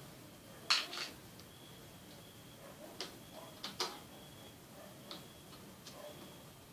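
Small screws and plastic parts of a netbook being handled during disassembly: scattered sharp clicks and taps, about seven in all, the loudest about a second in.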